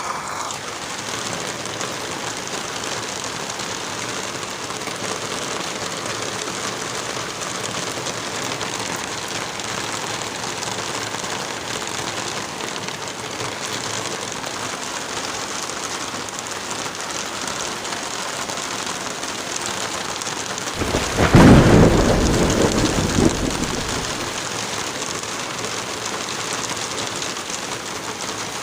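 Steady heavy rain, with one loud roll of thunder about three-quarters of the way through that fades over a few seconds.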